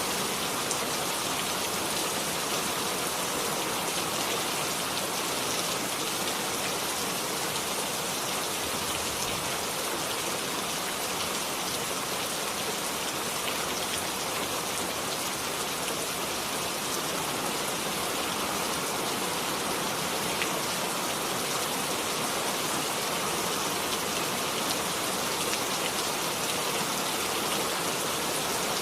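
Steady rain falling, an even hiss of many drops with faint scattered taps of single drops on a surface.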